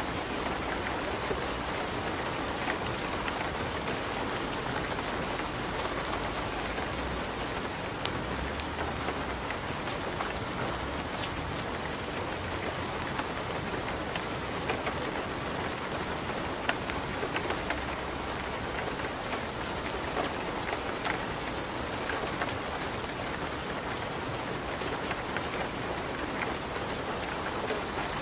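Wood fire burning in a fireplace: a steady hiss with many sharp crackles and pops scattered throughout.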